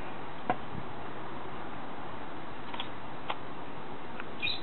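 A parrot's beak working at a piece of food: a few sparse, light clicks, with a brief high squeak near the end.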